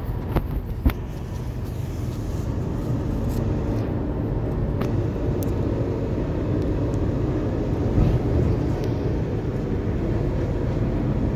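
Heavy diesel truck engine idling with a steady low rumble, with two sharp clicks about a second in and a brief louder knock near eight seconds.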